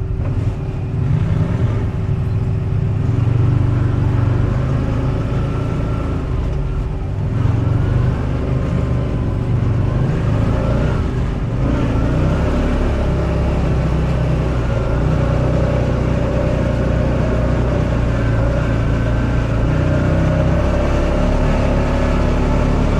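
Off-road buggy engine running under way, its pitch rising and falling several times as it revs and changes speed.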